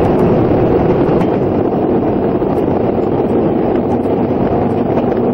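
Steady running noise of a locomotive-hauled passenger train at speed, heard from inside the carriage: a continuous rumble of the wheels on the rails mixed with wind noise.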